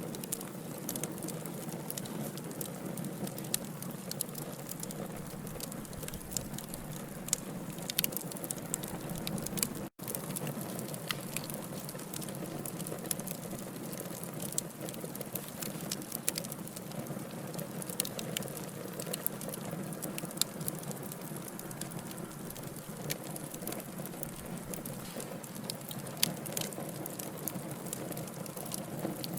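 Wood fire burning in a fireplace: a steady low hiss of burning logs with frequent sharp crackles and pops scattered irregularly throughout, and a split-second dropout about ten seconds in.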